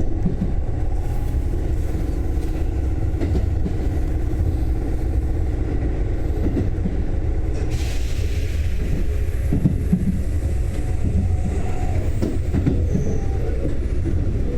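Sanyo Electric Railway train running between stations, a steady low rumble of wheels on track and motors. About eight seconds in, a hiss rises and fades away over a few seconds.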